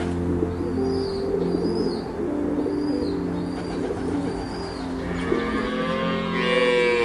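Soft background music with a bird chirping about once a second. Near the end a cow starts mooing in one long call.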